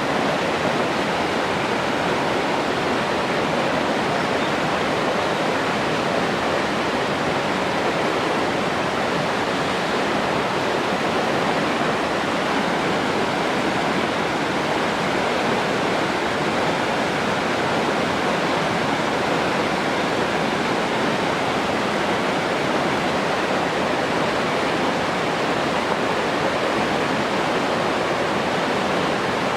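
Steady rushing water, an even unbroken wash of noise that does not change in level or character.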